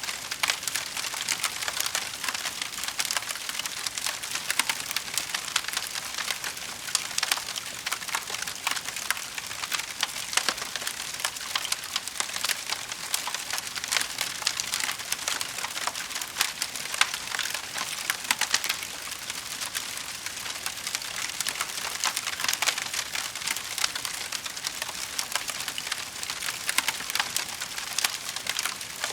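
Wood fire crackling in a fireplace: a steady stream of small, sharp pops and snaps over a soft hiss.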